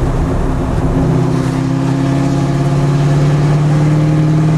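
Straight-piped V8 of a 1989 Fox Body Mustang race car running loud under way, its pitch climbing slowly and steadily as the engine pulls from about a second in.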